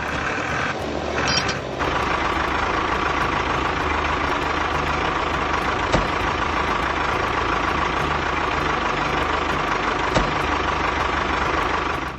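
A steady engine or motor running, a truck-like sound with a faint steady tone through it, and two sharp clicks about six and ten seconds in.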